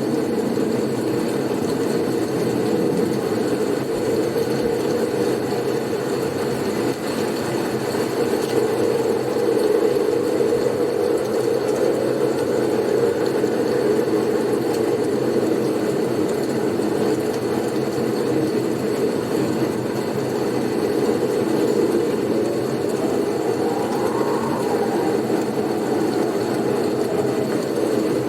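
Blizzard wind: a steady, deep rush of wind noise with slight swells in strength. A faint whistling tone rises and falls near the end.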